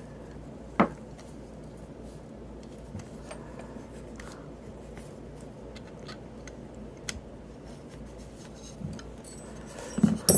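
Small screws on a folding knife's aluminum scales being tightened with a small driver: quiet handling and scattered metal clicks, a sharp click about a second in and a few more near the end.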